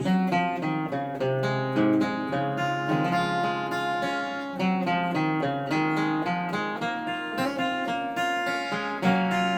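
Acoustic guitar strummed in an instrumental passage of a song, chords ringing with quick repeated strokes and no singing.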